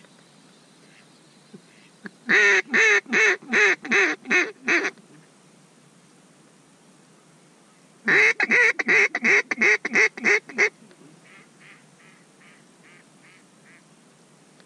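Mallard duck call giving hen-mallard quacks in two loud runs of about eight quacks each, a few seconds apart. A fainter, shorter run of quacks follows near the end.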